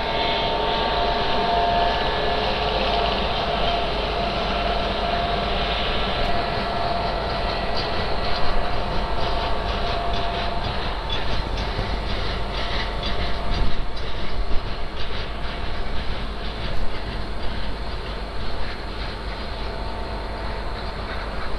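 WAG-9 electric locomotive hauling a freight train past on the line, with a steady whine in the first half. Then the wagons rattle by with repeated wheel clicks over the rail joints.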